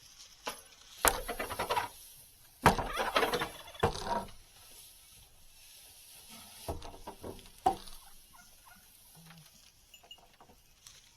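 Domestic turkey gobbling twice, a loud rattling call about a second in and a longer one from about three seconds in, with a few fainter, shorter calls later.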